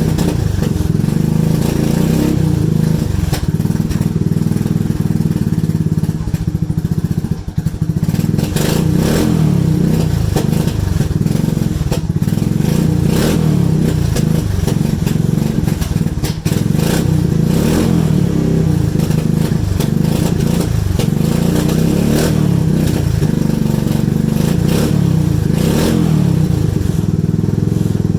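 ATV engine running steadily just after a cold start in near-freezing weather, with a light rhythmic clatter.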